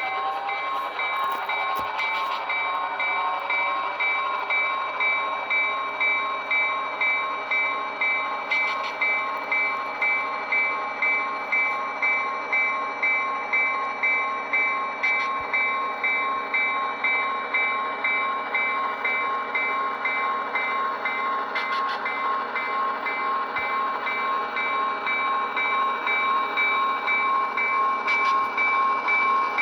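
Model locomotive's SoundTraxx ECO sound decoder playing diesel locomotive sounds through the model's small speaker: a steady engine hum with a regular ringing pulse about every 0.7 s.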